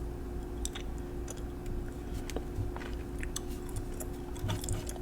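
Gum chewing close to the microphone: soft, irregular smacking clicks.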